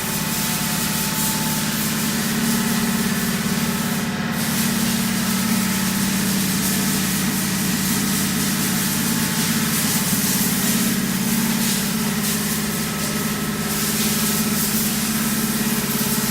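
1995 Daewoo Puma 8S CNC turning center running under power: a steady machine hum with a hiss over it that briefly drops out about four seconds in.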